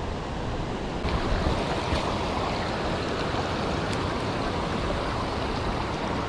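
Steady rush of water pouring through and below a dam spillway, an even hiss that gets a little louder and brighter about a second in.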